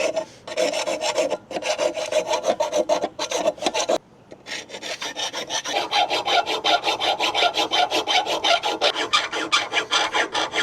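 Round chainsaw file worked back and forth in quick, even strokes, filing the mounting holes of a dryer motor bracket out into slots so the motor can be dropped to tighten its drive belt. The filing breaks off briefly about four seconds in, then resumes.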